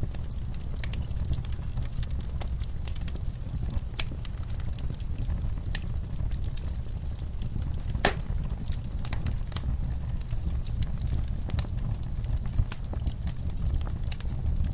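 Wood fire in a fireplace crackling, with frequent irregular sharp pops over a low steady rumble; one louder pop about eight seconds in.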